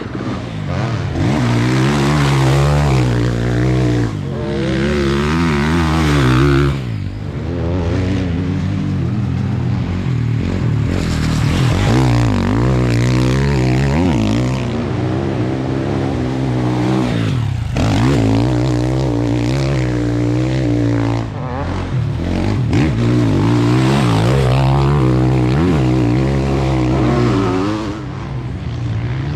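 Motocross bike engine revving hard, its pitch repeatedly climbing and dropping as the rider accelerates, shifts and backs off around the track.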